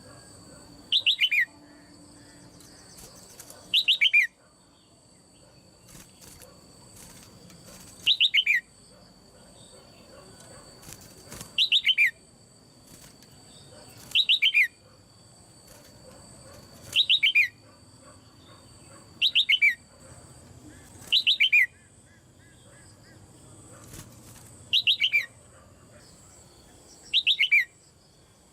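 Female red-whiskered bulbul calling in a cage: a short burst of quick notes falling in pitch, given ten times, one every two to three seconds. A faint steady high whine runs underneath.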